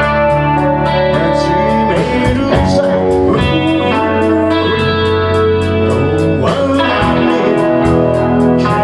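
Live rock band playing loudly: distorted electric guitar chords over bass and drums, with a steady cymbal beat of about three to four strokes a second.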